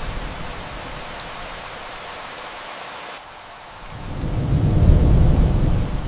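Steady rain hissing, with rolls of distant thunder. One low rumble is dying away at the start, and another swells about four seconds in, loudest around five seconds, then eases off.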